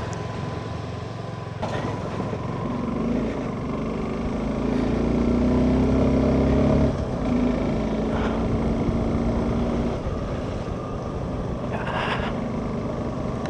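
Suzuki V-Strom SX 250's single-cylinder engine running under way. Its note builds over several seconds, drops off suddenly about seven seconds in, then settles again.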